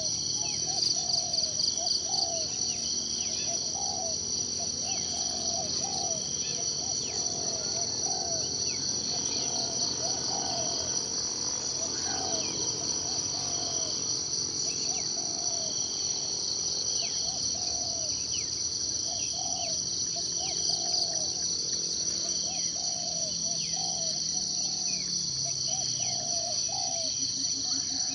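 Steady, shrill insect chorus of crickets, with short low calls repeating about once or twice a second and scattered brief falling bird chirps over it.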